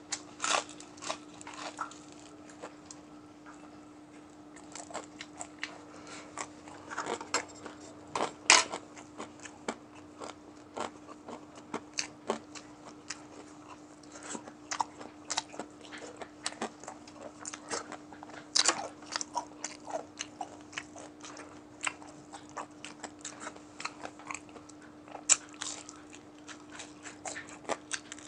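Close-up sound of crunching and chewing crispy deep-fried chicken neck: irregular crisp crunches and mouth smacks, a few bites much louder than the rest, over a steady low hum.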